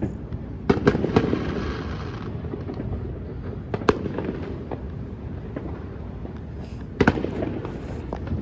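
Fireworks going off: a few sharp bangs spread through, one of them about a second in followed by crackling, over a steady low rumble.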